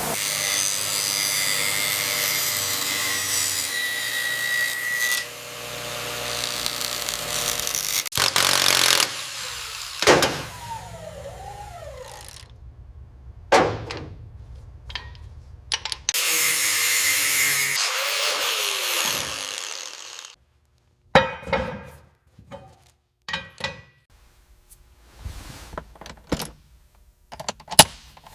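A power tool running in two stretches of several seconds each, with single sharp knocks between them. After it cuts off suddenly, a run of scattered clicks and knocks follows.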